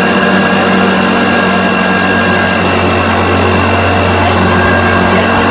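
1986 Hoover Turbopower U2332 upright vacuum cleaner running steadily on its low speed over carpet, sucking up test dirt: a loud, even rush of air with a steady high whine above it.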